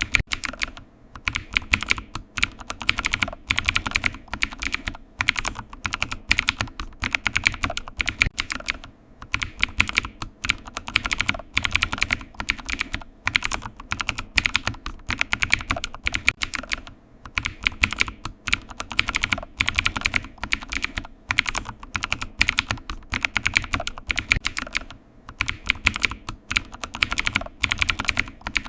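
Continuous typing on a computer keyboard: rapid key clicks in bursts, with short pauses every few seconds.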